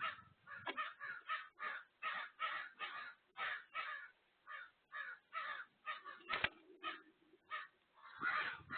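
Harsh, caw-like bird calls repeated rapidly, about two to three a second, with a single sharp click about two-thirds of the way through.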